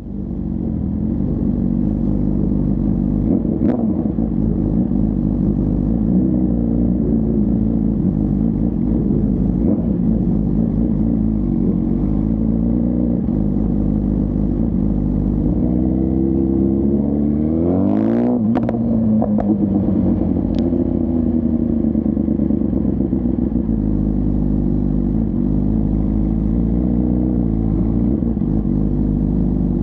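2024 BMW S1000RR's inline-four engine running steadily at low revs, with one quick rev about eighteen seconds in that rises in pitch and falls back.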